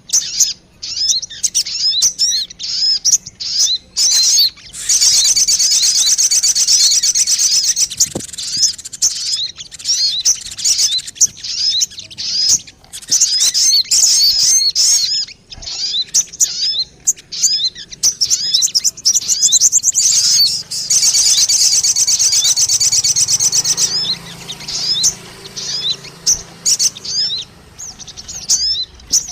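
Recorded lure calls of a sogon bird: rapid, high-pitched chirps repeated without pause, breaking into dense, fast trills about five seconds in and again about twenty seconds in.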